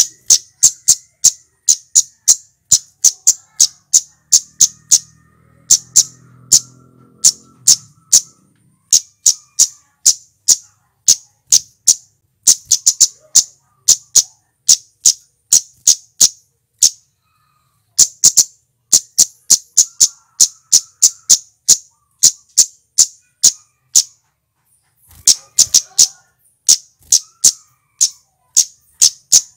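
Male flowerpecker singing a rapid series of sharp, high 'tsit' notes, about three a second, in runs broken by short pauses.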